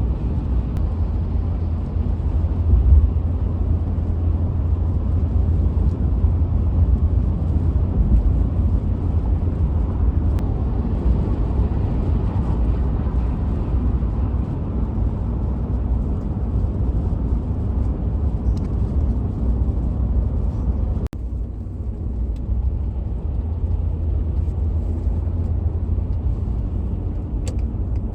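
Steady low rumble of a vehicle driving, engine and tyre noise heard from inside the cab. The sound drops out for an instant about two-thirds of the way through, then carries on unchanged.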